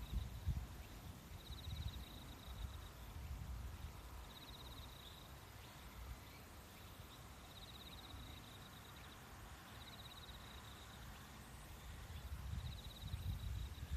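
Insect chirping: short, high, rapidly pulsed trills repeating every two to three seconds, over a low outdoor rumble that swells briefly at the start and again near the end.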